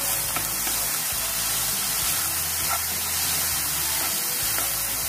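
Chopped vegetables and tomato sizzling in a hot nonstick pan with a steady hiss while a wooden spatula stirs them, giving a few light scrapes and taps.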